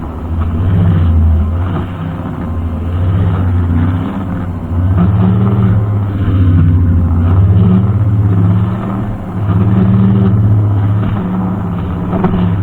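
Brushcutter engine running under load, a steady low hum whose loudness swells and eases every two seconds or so as it cuts.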